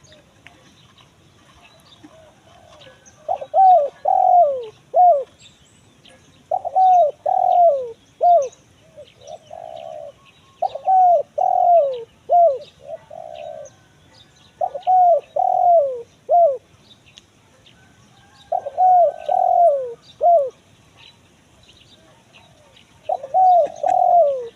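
Spotted dove (tekukur) cooing in the crisp 'kuk satu mersik' style: six loud phrases of several short, falling coos, one roughly every four seconds. It is the territorial call used as a lure to draw in wild spotted doves.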